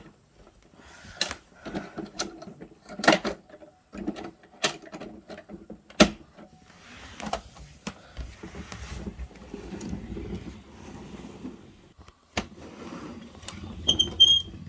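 Plastic Bruder toy garbage truck parts clicking and knocking as they are handled, a sharp knock every second or two with some rubbing in between, and two short high beeps near the end.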